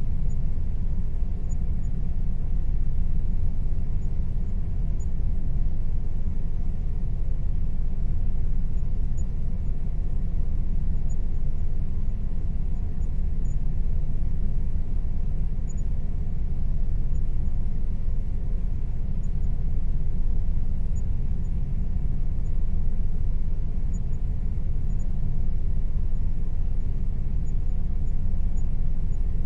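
Air conditioner running steadily: a constant low rumble with a faint steady tone above it.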